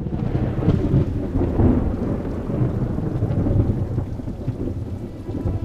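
Thunder rumbling continuously over steady rain.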